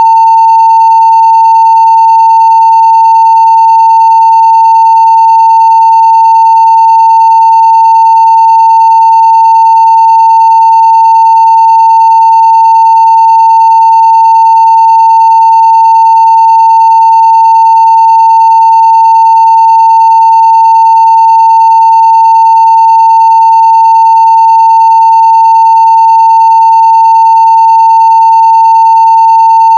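A 900 Hz sine-wave test tone at 0 dB full scale, very loud, one steady pitch that never changes or breaks.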